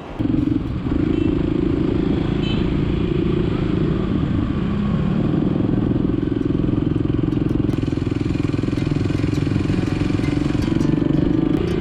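Motorcycle engine running at a steady pace while riding, with road noise.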